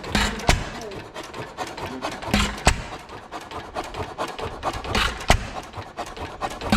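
1927 Domestic Type F 4 hp side-shaft hit-and-miss engine running, firing in pairs of sharp beats about every two and a half seconds and coasting on its flywheels between them.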